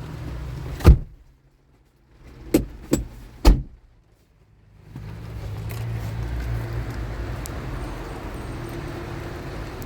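A car's low rumble, cut by a sharp knock about a second in. Then comes a very quiet stretch with three more sharp knocks or clicks, such as car doors or latches. About five seconds in, the low rumble comes back.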